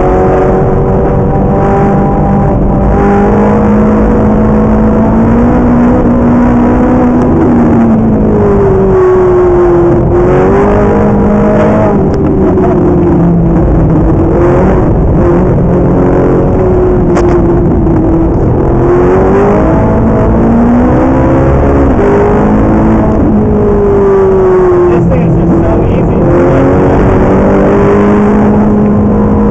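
Ferrari 458 Italia's mid-mounted 4.5-litre V8 at speed on a race track, heard from inside the cabin, its note climbing and dropping back over and over through the gears and corners.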